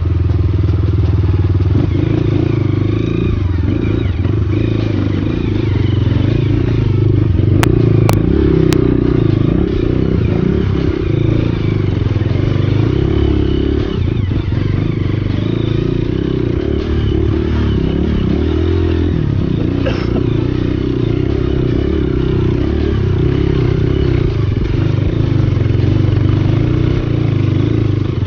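Trail motorcycle engine running steadily under way, with three sharp clicks about eight seconds in.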